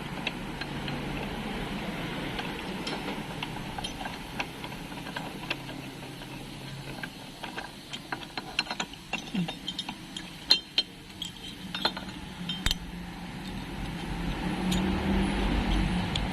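Metal parts and hand tools clinking and clicking as a Honda City CVT transmission is worked on, in scattered light knocks that come thickest in the middle. A low rumble rises near the end.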